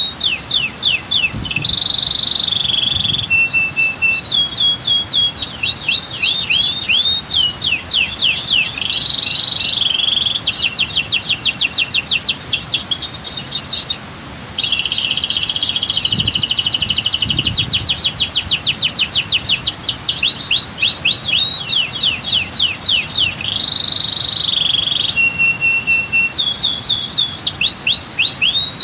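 Domestic canary singing a long, continuous song of fast trills and held whistled notes, with a brief break about halfway. Under it runs a steady rush of waterfall noise.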